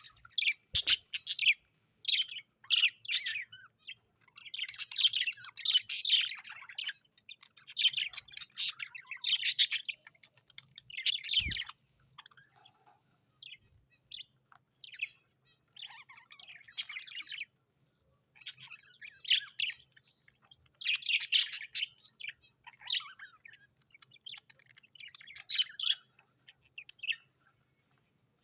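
Small birds chirping and twittering in repeated bursts of a second or two, high-pitched, with short pauses between bursts.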